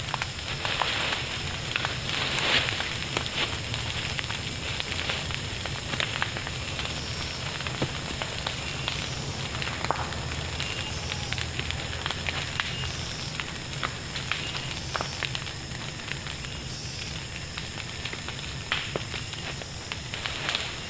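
Fire crackling, with irregular sharp pops over a steady hiss.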